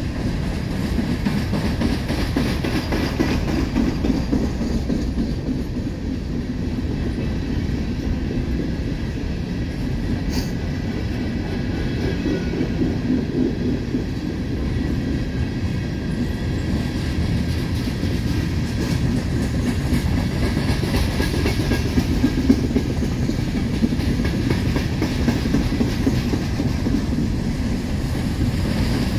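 A train of empty coal hopper cars rolling past in a steady rumble, with the clickety-clack of wheels over rail joints.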